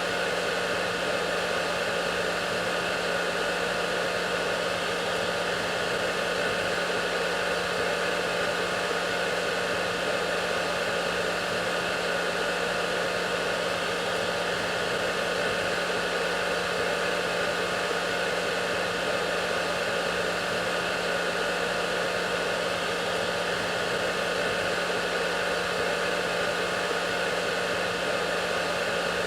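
Hair dryer running steadily: an even rushing hiss of blown air with a constant motor hum and a few steady whining tones, unchanging throughout.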